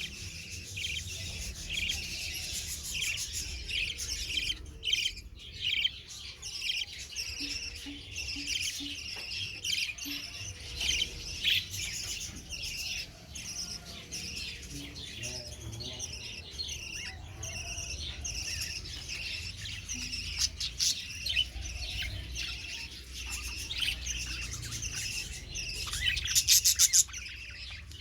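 Young budgerigars chirping and chattering in a steady stream of short, high calls, with a louder rapid burst of calls near the end.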